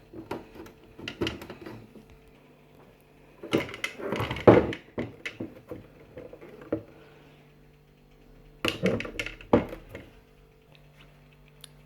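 Plastic clicks and knocks as the water tank of a Bionaire BDH001 dehumidifier is handled, pulled out and put back, in three separate bursts, over a faint steady hum.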